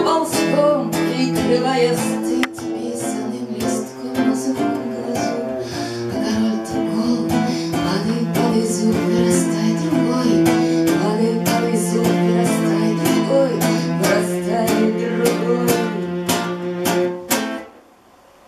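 Live acoustic guitar music, strummed and plucked over held low notes, stopping abruptly near the end.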